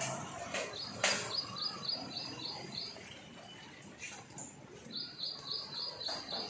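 A bird calling a rapid series of identical high chirps, about four a second, that stops midway and starts again near the end. A single sharp click about a second in.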